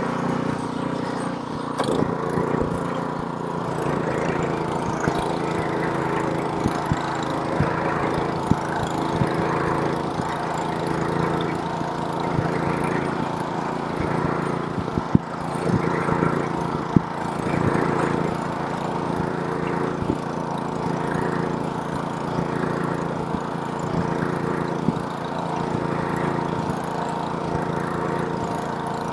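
Gas snowblower's small engine running steadily while blowing snow, with a few sharp clicks in the second half.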